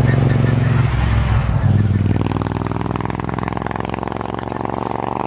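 Motorcycle engine running steady, its note changing about two seconds in, with ducklings peeping in quick high chirps, about five a second, in two runs.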